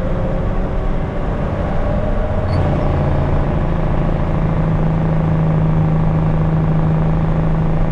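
Diesel engine of a loaded 1974 Kenworth log truck running steadily, heard from the cab on a mountain road, its note firming up and holding steady from about two and a half seconds in.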